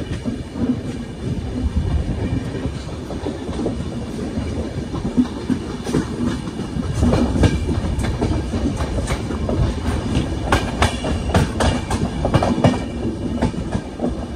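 Rajdhani Express coaches running along the line: a steady rumble of wheels on rail, with sharp clacks of the wheels over rail joints that come thicker in the second half. Heard from the open doorway of a moving coach.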